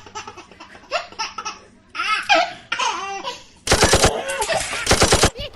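Laughter in short broken bursts, with two louder stretches of rapid stuttering laughs later on.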